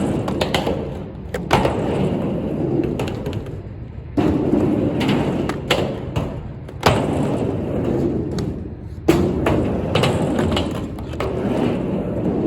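Skateboard riding a mini ramp: the wheels roll with a steady rumble, broken several times by sharp clacks as the board and trucks strike the ramp.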